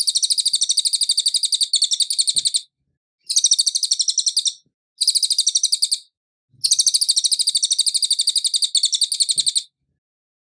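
Cililin songbird singing: four bursts of fast, evenly repeated high notes, a rapid trill that breaks off sharply between phrases, with silence in the last second.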